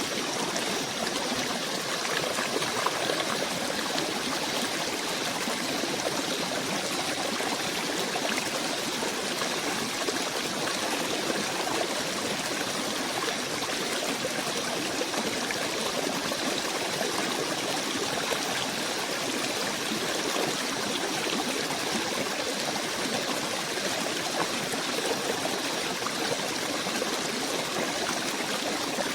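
A steady, unbroken rush of running water, like a small stream.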